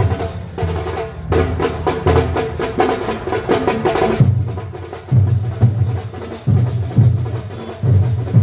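Drum-heavy percussion music: a dense stretch of rapid drumming in the first half, then heavy low drum beats about one and a half a second.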